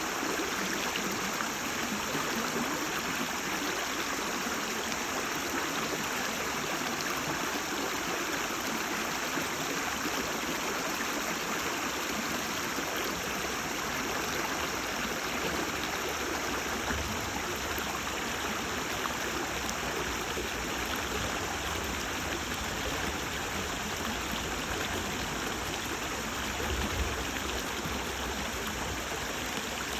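Shallow stream babbling and gurgling over stones, a steady, unbroken rush of running water.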